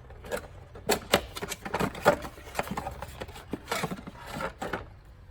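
Irregular short knocks and rustles of someone moving about and handling things, dying down near the end.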